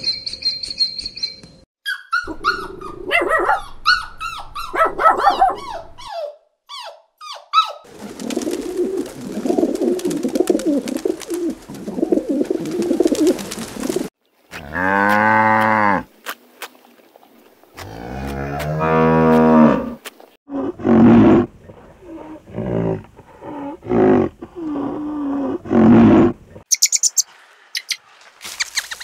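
A series of different animal calls, one after another: quick short chirps early on, then a stretch of noisy calling, then two long, drawn-out low calls that are the loudest sounds, then several shorter calls.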